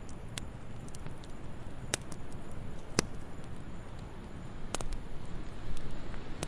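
Wood fire crackling in a fireplace: a steady low rush of flame with scattered sharp pops, the loudest about three seconds in.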